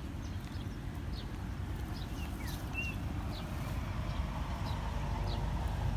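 Outdoor ambience: birds chirping in short falling notes, with a couple of brief whistled calls, over a steady low rumble.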